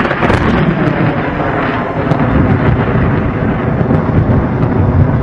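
Thunderstorm sound effect: loud, continuous rolling thunder and storm noise that cuts off abruptly at the very end.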